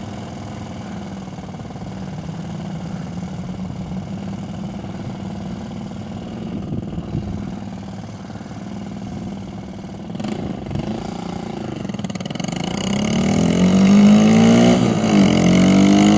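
Motorcycle engine idling steadily while stopped, then pulling away: the note gets louder and rises in pitch, drops briefly at an upshift, and climbs again.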